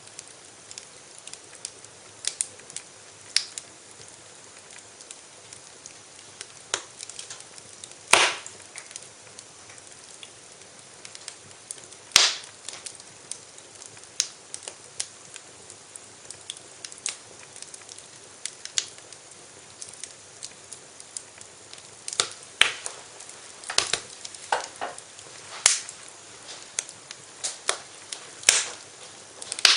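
Wood fire crackling in a fireplace: sharp, irregular pops and snaps over a soft steady hiss, with the loudest pops about 8 and 12 seconds in and a thicker run of them near the end.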